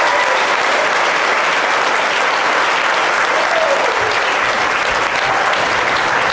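Audience applauding steadily after an a cappella song.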